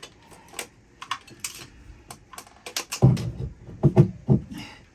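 Scattered light clicks and taps of parts and tools being handled during engine-bay work, with a few heavier knocks about three to four and a half seconds in.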